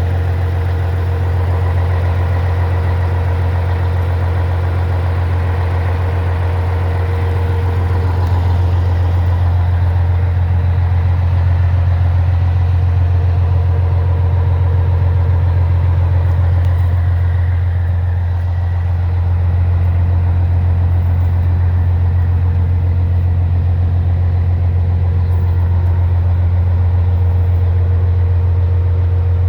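Scania 111 truck's diesel engine running steadily, a deep even hum that holds unchanged.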